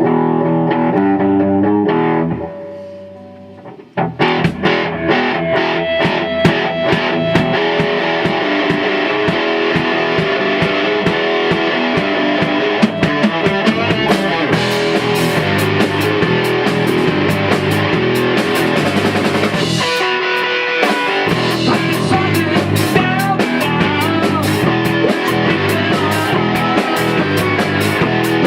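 Rock band playing at rehearsal: distorted electric guitar, bass and drum kit. A short low riff opens, the full band comes in about four seconds in, and there is a brief break near the twenty-second mark before the playing resumes.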